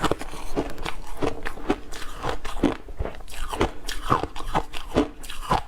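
Ice being bitten and chewed: an irregular run of sharp crunches, several a second.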